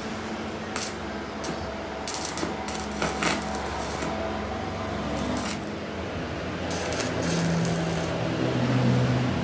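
Workshop machinery running with a steady hum, with scattered metallic clinks and knocks, several in the first three seconds and more near the end.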